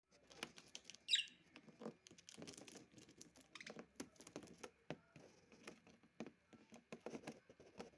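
Pet lovebirds playing: a faint, irregular run of light taps, clicks and scratching, with one short falling chirp about a second in.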